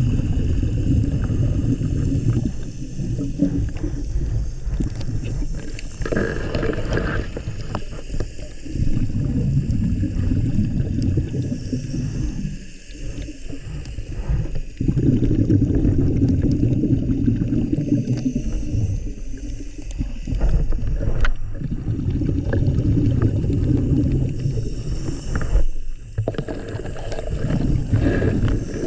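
Scuba diver's exhaled bubbles from a regulator, heard underwater as a low gurgling rumble. It comes in stretches of a few seconds with short lulls between breaths.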